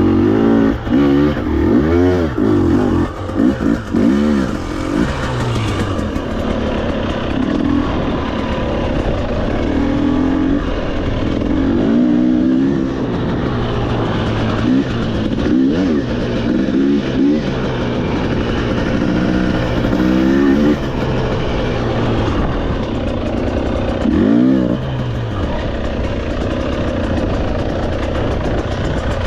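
Motorcycle engine running on a trail ride, its revs rising and falling again and again as the throttle is opened and closed, steadier over the last few seconds.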